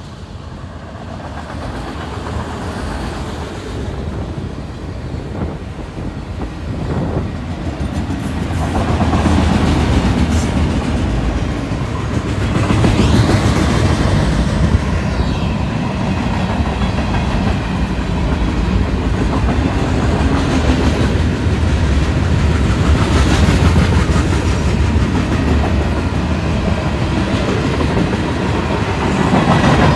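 Freight train cars rolling past close by: a steady rumble of steel wheels on rail with clickety-clack over the rail joints, louder from about eight seconds in.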